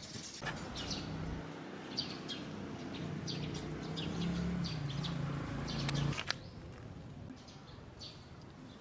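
Birds chirping in short, repeated high calls, over a low steady rumble that cuts off with a click about six seconds in.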